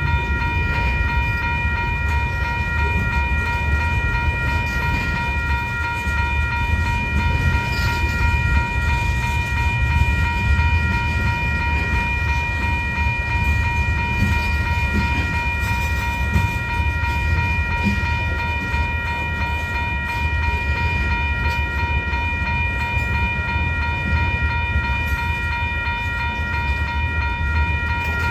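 Freight train rolling past with a continuous low rumble from its cars, and a steady high whine held without a break throughout.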